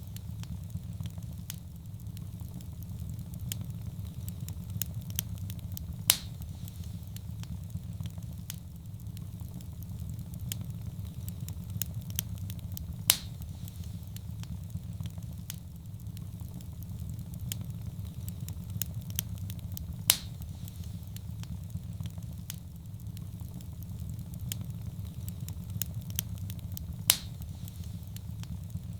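Wood fire burning in a fireplace: a steady low rumble with constant small crackles, and a louder sharp pop about every seven seconds.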